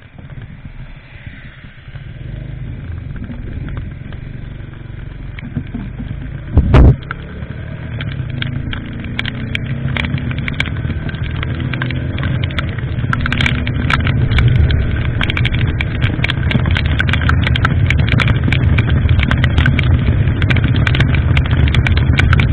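Motorcycle riding, engine and wind noise on the camera microphone, getting louder as the engine pitch climbs with speed. A loud thump comes about seven seconds in, and sharp crackling clicks run through the second half.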